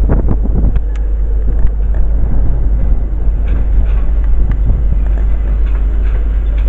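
A train running through a station: a steady low rumble with scattered sharp clicks and knocks.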